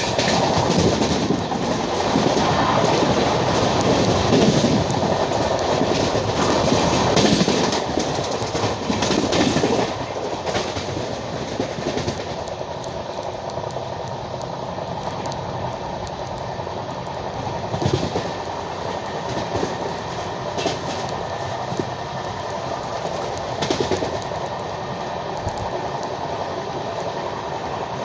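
Passenger train running on the track, wheels clacking over rail joints. It is louder for about the first ten seconds, then settles to a steadier, quieter run with a few sharp knocks.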